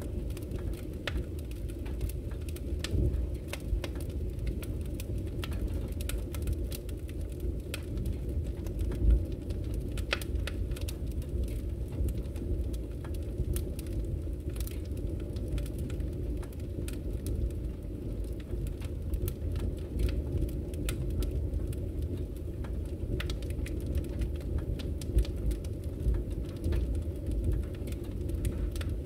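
Wood fire in a fireplace crackling, with irregular sharp pops over a steady low rumble of flames; one louder pop about nine seconds in.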